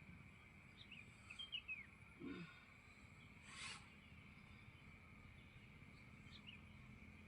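Near silence: faint background ambience with a steady high whine and a few short, falling bird chirps, plus one brief rasping noise about three and a half seconds in.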